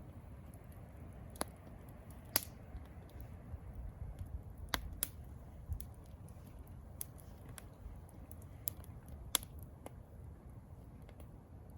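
Wood campfire crackling: irregular sharp pops and snaps a second or so apart over a low steady rumble.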